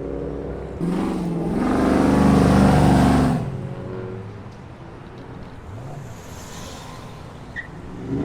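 Car engines idling, then a car accelerating past from about a second in, its engine note rising and loud for about two seconds before it drops away to a quieter engine rumble.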